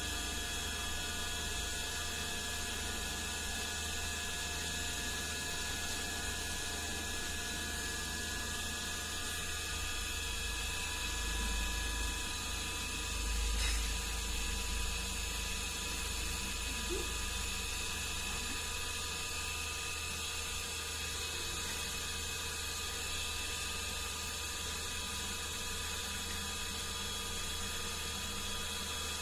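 Steady electrical hum and hiss with no distinct events, a low rumble swelling briefly about halfway through.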